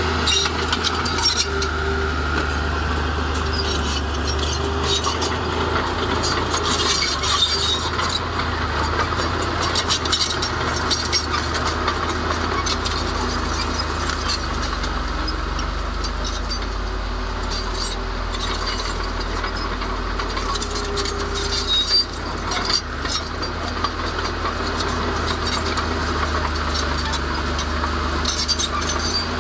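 Komatsu D31A crawler bulldozer's diesel engine running steadily with a constant low hum, with irregular metallic clinks and clanks throughout and a few louder knocks about three-quarters of the way in.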